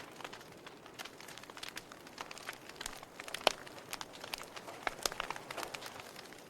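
Wood fire crackling in a fireplace: irregular sharp pops and snaps over a soft hiss, with one louder pop about three and a half seconds in.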